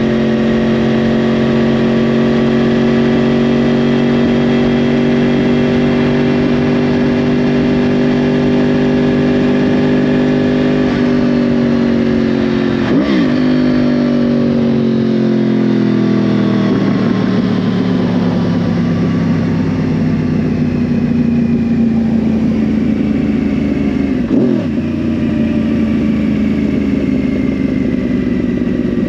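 2010 Yamaha R1's crossplane inline-four running through a Yoshimura exhaust while riding. The engine note holds steady for about ten seconds, then falls gradually as the bike slows, broken twice by a quick dip and recovery in pitch, and starts climbing again at the very end.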